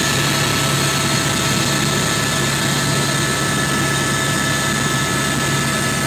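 Helicopter turbine and rotor noise heard from inside the cabin in flight: a steady loud drone with fixed high whines over it.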